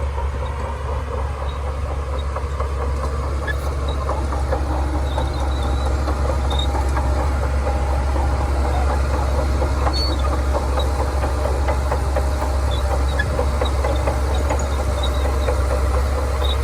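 Shantui bulldozer working, its diesel engine running under load with the steady clatter of its steel tracks, getting a little louder a few seconds in.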